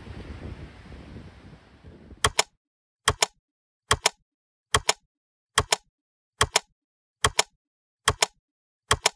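Wind and surf noise fading out, then a run of sharp double clicks, two quick clicks per beat, repeating about every 0.8 s in dead silence.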